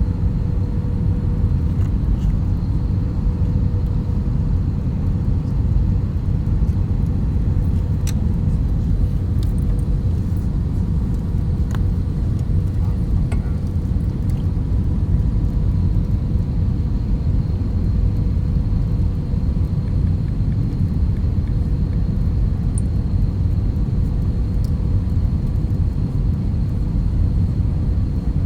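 Airliner cabin noise during the approach: a steady, dense low rumble of engines and rushing air, with a faint steady tone above it.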